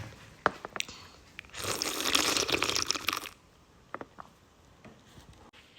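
Close-up eating of spicy noodles in broth: a loud, noisy slurp lasting about a second and a half, between small wet clicks of chewing.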